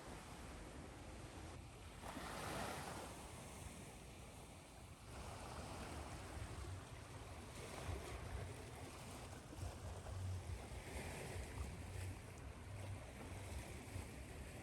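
Ocean surf washing on a shore, mixed with steady white noise, with a wave swelling up about two seconds in.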